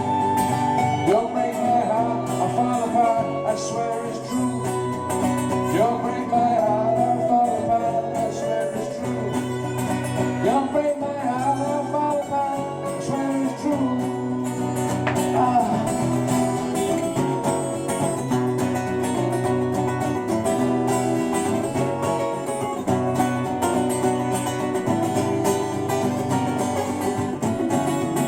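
Live acoustic folk music without vocals: guitars played under a wavering lead melody line.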